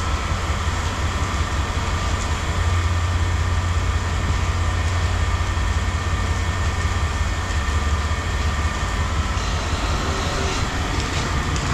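Steady low engine rumble of running machinery, with a few faint clicks near the end.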